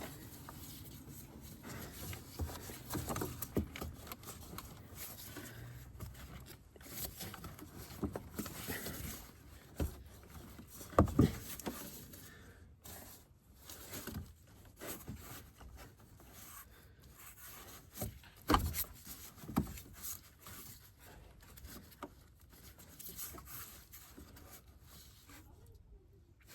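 Hand tools and engine-bay parts being handled while the air filter box is taken out: scattered clicks, knocks and scrapes, with a few louder knocks around the middle and about two-thirds through.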